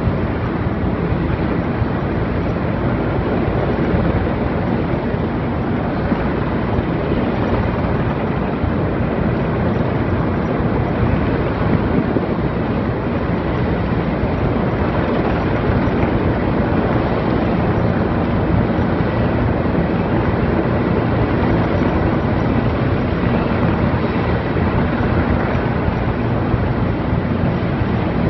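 Erickson S-64 Air-Crane heavy-lift helicopter hovering, its rotor and turbine engines running steadily with no let-up, a faint high whine above the rotor noise.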